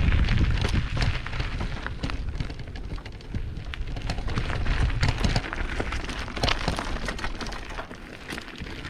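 Mountain bike rolling over a rough trail of loose rocks: tyres crunching on the stones and the bike rattling in a dense run of quick clicks and knocks. A heavy low rumble runs under it for the first five seconds or so, then eases.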